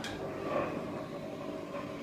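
Lift motor running steadily with a mechanical whir, switched on with a click just before.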